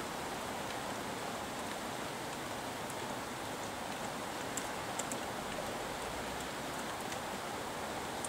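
Steady rain falling, an even hiss, with a few sharp drops ticking close by about halfway through.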